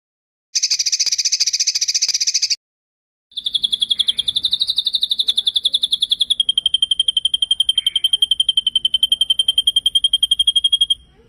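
Recorded songbird trilling: a buzzy rattle about two seconds long, then, after a short gap, a long, rapid, even trill lasting about eight seconds that drops slightly in pitch partway through.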